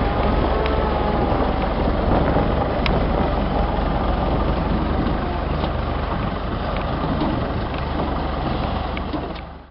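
Engine of the vehicle towing the tractor running steadily, with a faint wavering whine in the first few seconds and a few light clicks; it fades out near the end.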